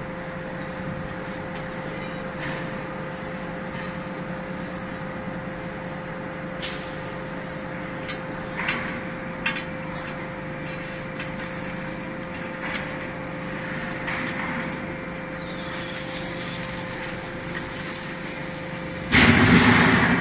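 Vertical cardboard baler's hydraulic power unit running with a steady hum, with scattered clicks and knocks over it. Near the end comes a loud rushing burst of about a second.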